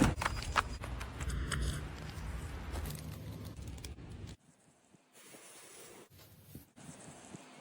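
Light rustling and scraping handling noise with a few sharp clicks. It cuts off about four seconds in, leaving faint room tone.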